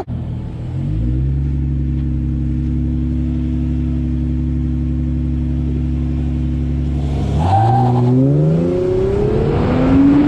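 Car engine running at a steady pitch, then accelerating: the pitch climbs, drops back briefly as if shifting gear, and climbs again.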